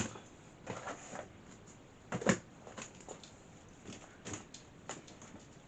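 A series of knocks and clicks from objects being handled, with a sharp knock at the start and the loudest pair about two seconds in, then lighter taps.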